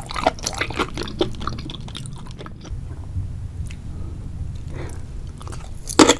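Wet chewing and squishing of spicy seafood in thick sauce, eaten mukbang-style. Quick wet mouth clicks come over the first couple of seconds, then a quieter stretch, and a loud bite near the end as a new piece goes into the mouth.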